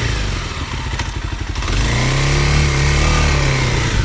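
Dual-sport motorcycle engine dropping to a slow, lumpy firing beat, then revving up again with a rising and falling note.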